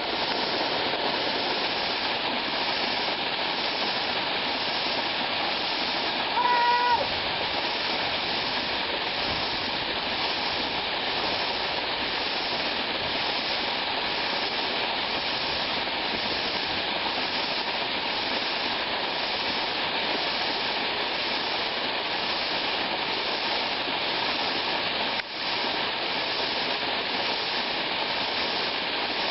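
Waterfall rushing: a steady, loud noise of falling water. About six and a half seconds in, a brief high-pitched call sounds over it.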